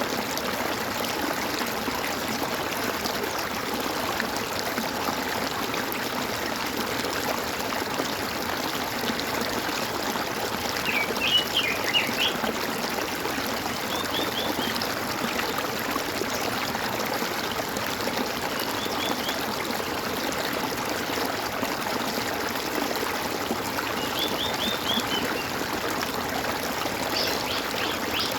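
Water gurgling and trickling steadily in a small stream, with a bird giving short bursts of quick high chirps several times, loudest about a third of the way in.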